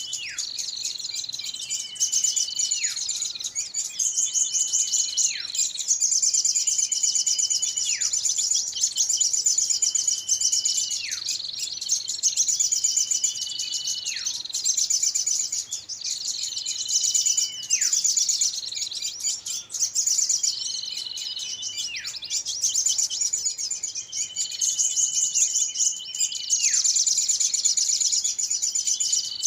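Bird-lure recording of small birds calling noisily: a rapid high chatter runs throughout, with a short falling note repeating over it, and about every two seconds a held whistle that drops sharply at its end.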